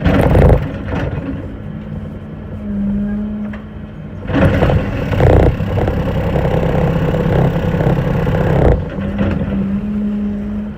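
Engine running steadily, then revving hard under load for about four seconds midway as it strains to pull an old piling out on a chain, with a loud clank right at the start.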